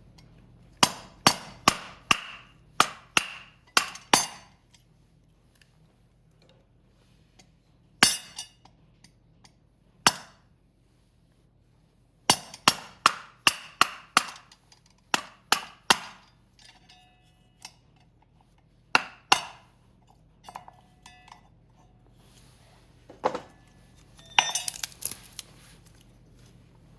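Pieces of dry split firewood being handled and stacked, knocking together with sharp, ringing clacks in quick runs and single knocks.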